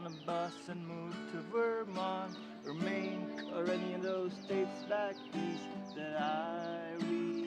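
Acoustic guitar played solo, a run of plucked notes ringing over a sustained low note.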